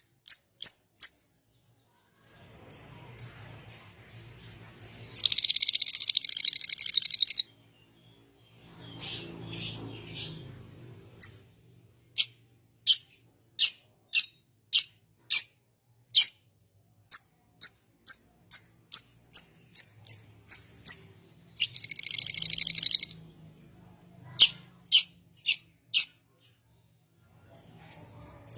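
Bird chirping: short, sharp, high chirps repeated about twice a second, broken twice by a loud, dense, buzzing trill lasting a second or two.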